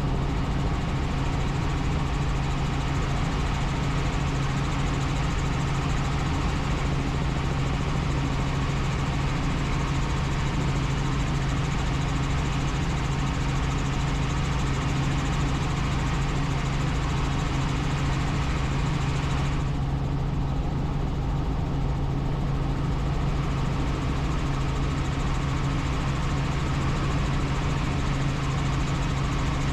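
Helicopter in flight: a steady drone of engine and rotor with a constant low hum. About two-thirds of the way through, the higher hiss drops away for a few seconds and then comes back gradually.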